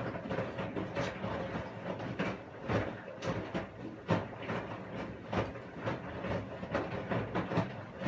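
Washing machine running, its drum turning with a steady swishing noise and uneven knocks a few times a second.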